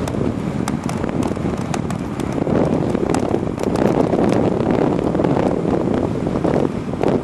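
Wind rushing and buffeting over the microphone of a camera riding on a moving e-bike, with scattered sharp clicks and knocks from the bike and camera mount going over the road.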